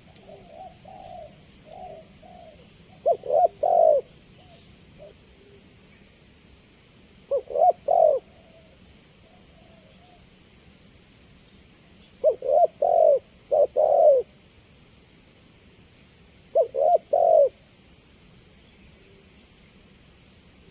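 Spotted dove (tekukur) cooing: four loud phrases of a few low, hollow notes, spaced several seconds apart, with fainter coos in between. A steady high-pitched hiss runs underneath.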